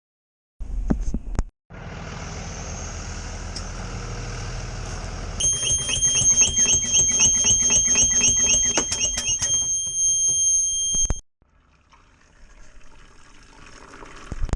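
Electronic alarm tone beeping rapidly, about four beeps a second for some six seconds, over a steady rushing noise; both cut off suddenly about eleven seconds in.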